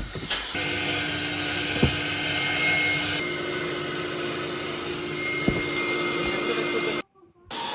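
A small electric motor, such as a kitchen appliance's, running steadily with a constant whine, then cutting off abruptly near the end.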